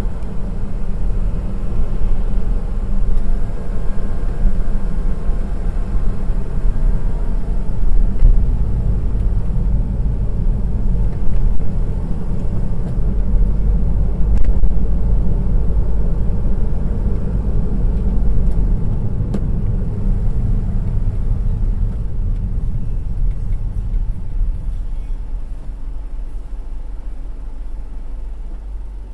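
Honda S660's small turbocharged three-cylinder engine and road noise while driving, a steady low rumble that eases off and gets quieter over the last few seconds.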